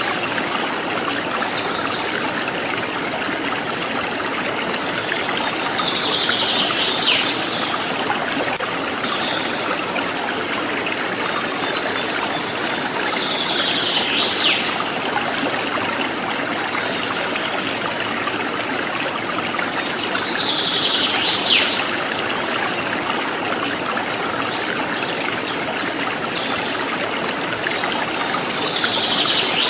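Forest stream trickling and gurgling steadily, with a wild bird repeating a short falling call four times, about seven seconds apart.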